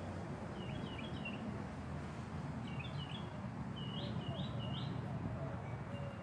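Small birds chirping in short bursts of quick high notes, including a run of three quick notes about four seconds in, over a steady low background rumble.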